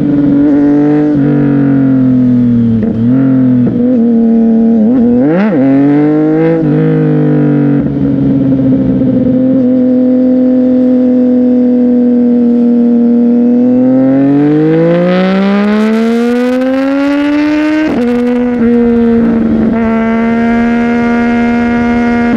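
CFMOTO 675NK three-cylinder engine through a Burnout titanium exhaust, revs rising and falling with quick blips in the first few seconds. Later the pitch climbs steadily for about four seconds and drops sharply at a gearshift, then holds steady.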